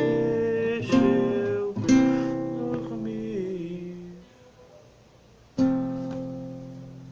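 Acoustic guitar playing the song's closing chords: strums about one and two seconds in, with notes sliding down as they fade. After a short pause, a final chord rings out and dies away.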